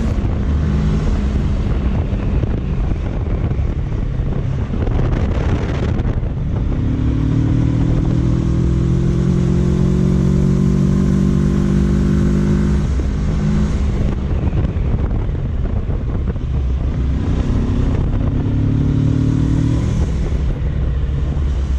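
Kawasaki Versys 650's parallel-twin engine running under way, with a constant low wind rumble on the microphone. The engine note climbs gradually through two spells of acceleration, about 7 and 17 seconds in, and each ends with a sudden drop in pitch.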